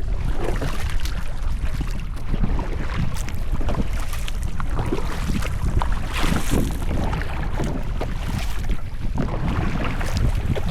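Wind buffeting the microphone in a heavy low rumble, with irregular water splashes and sloshing from kayak paddling.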